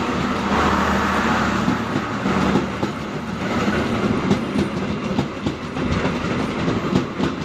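Passing train: a steady rushing noise with wheels clicking over rail joints, the clacks sharper and more frequent in the second half.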